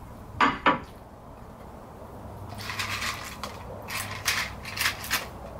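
A person chewing a bite of a breakfast sandwich close to the microphone. Two short wet mouth smacks come about half a second in, followed by a run of irregular clicky chewing sounds, roughly three a second, over the last few seconds.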